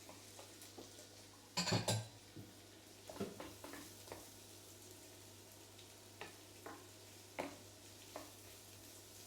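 Chopped celery and onion sizzling faintly in butter and olive oil in a frying pan, with a utensil scraping and knocking against the pan a few times as they are stirred; the loudest knock comes about two seconds in.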